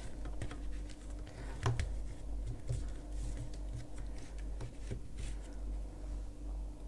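Faint scattered clicks and rustling of a crochet hook and yarn being worked through the holes of a wooden frame, with one sharper click nearly two seconds in, over a steady low hum.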